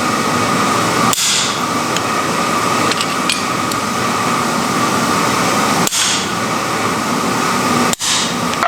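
Hammering on iron over a steady workshop roar with a constant high whine.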